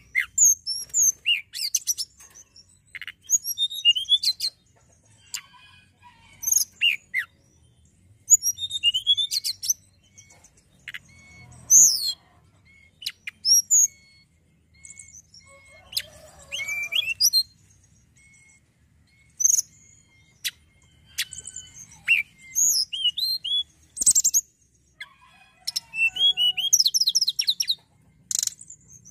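Tledekan gunung songbird singing: bursts of quick, high chirps, sweeping notes and short trills, broken by pauses of a second or so, with a run of short repeated single whistles in the middle.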